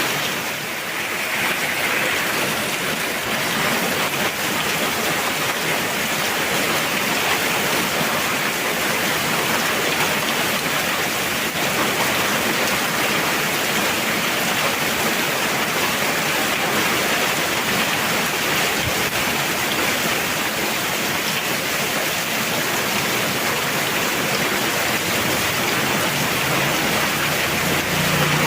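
Heavy rain pouring down in a steady, dense hiss. A low hum comes in near the end.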